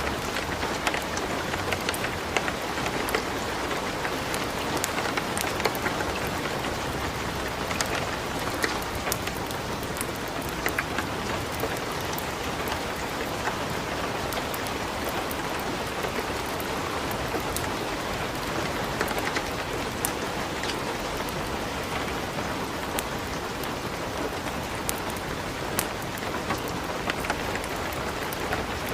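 Steady light rain, mixed with scattered sharp crackles and pops of burning wood in a fireplace.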